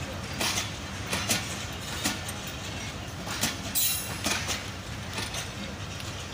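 Millat Express passenger coaches pulling out of the station, their wheels rumbling steadily and clacking over the rail joints at uneven intervals.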